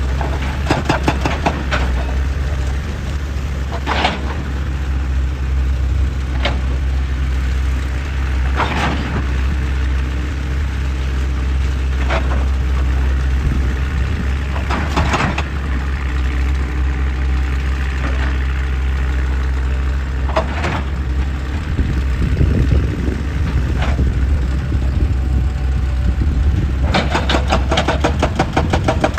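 Excavator diesel engine running steadily, with scattered knocks and crunches of rock every few seconds. About three seconds before the end a rapid, even hammering begins.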